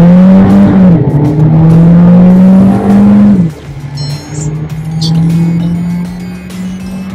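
Volkswagen Virtus 1.5 TSI turbocharged four-cylinder petrol engine under hard acceleration, heard inside the cabin. The engine note rises, drops at an upshift about a second in, climbs again, and drops at a second shift about three and a half seconds in. After that it runs steady and quieter.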